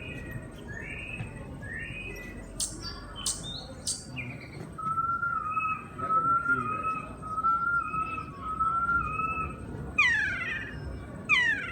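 Recorded New Zealand bird calls played back at a museum exhibit: a few rising chirps, a couple of sharp clicks, then a repeated warbling whistle, ending with two quick falling sweeps.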